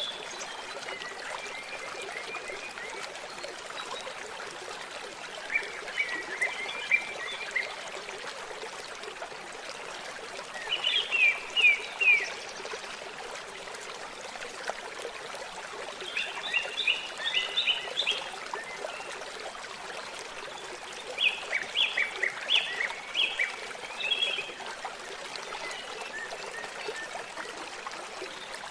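Steady trickle of flowing water, with a bird singing short phrases of quick high notes, repeated every five seconds or so.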